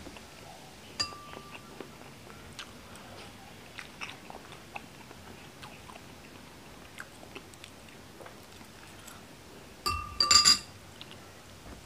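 Close-up chewing with soft wet mouth clicks of a person eating balot (boiled fertilized duck egg). About ten seconds in comes a brief, louder clatter with a ringing clink as he picks an egg up from the plate where a metal spoon lies among the eggs.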